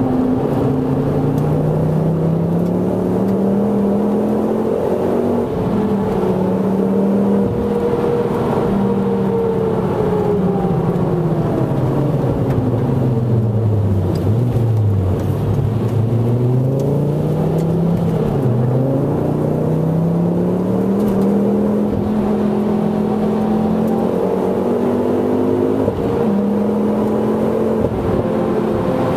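Ford Focus ST Mk2's turbocharged 2.5-litre five-cylinder engine heard from inside the cabin during hard track driving. The revs drop sharply about a second in, climb and hold, then fall steadily to a low point about halfway through before rising again as it pulls away.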